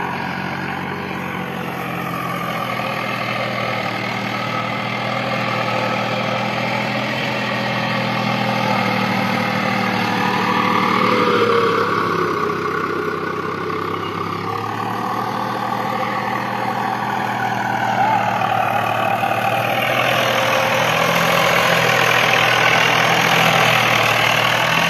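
Swaraj 744 FE tractor's three-cylinder diesel engine running steadily, its pitch dipping and rising around the middle, then louder over the last few seconds.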